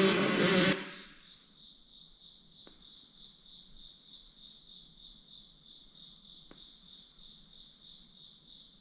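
Dirt bike engine noise from the race footage cuts off abruptly within the first second. Crickets then chirp faintly and steadily in an even, rapid pulse, with two faint clicks.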